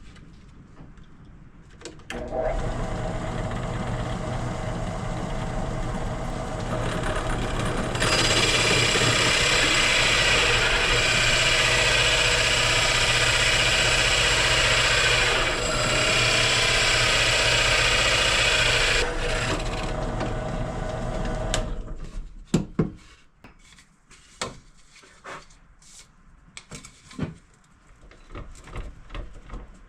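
Electric power tool working wood: its motor starts about two seconds in and runs steadily, and for about ten seconds in the middle it bites into the wood with a loud hiss. It stops after about twenty seconds, followed by scattered knocks and clicks of wood being handled.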